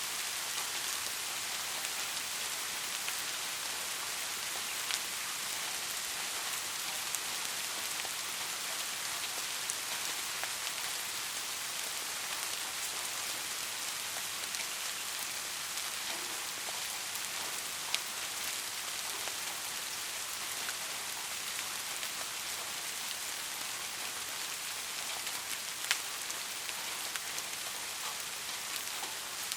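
Steady rain falling, an even hiss with a few louder single drops striking close by.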